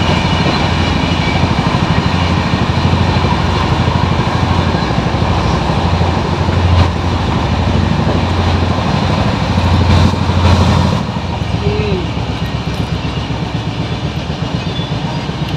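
Running noise of a moving passenger train heard from inside the coach: a steady low rumble with rattling and hiss, which drops a little in level about eleven seconds in.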